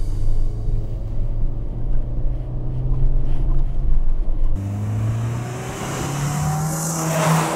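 Ford Mondeo's 2.0-litre Zeta four-cylinder engine accelerating, heard from inside the cabin, its note rising. About halfway through, the same car is heard from the roadside as it comes up and passes close by near the end, its engine note rising as it speeds up.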